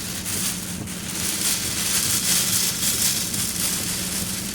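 A car driving through a storm, heard from inside: a steady hiss of wind and rain with road noise that swells a little about a second in, over a steady low engine hum.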